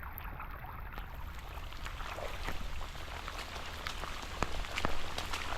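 Rain falling steadily, with many separate sharp drop strikes close by.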